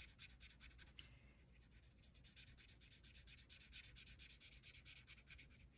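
Faint, quick scratchy strokes of a marker colouring in on paper, several strokes a second.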